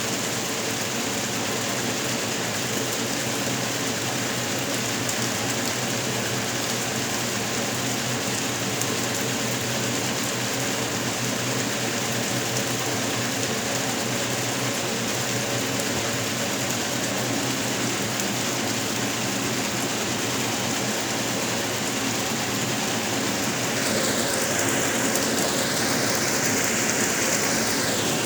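1977 Westinghouse Lavínia washing machine running: a steady rush of splashing water over a low motor hum. Near the end a higher sound swoops up and down.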